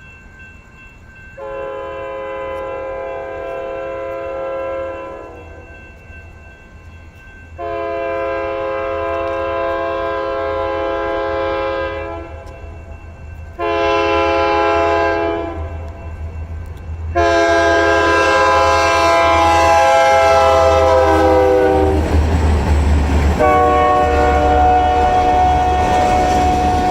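Diesel locomotive air horn sounding the standard grade-crossing signal: two long blasts, a short one, then a final long blast whose pitch drops as the locomotive passes. The loud rumble of the passing train follows.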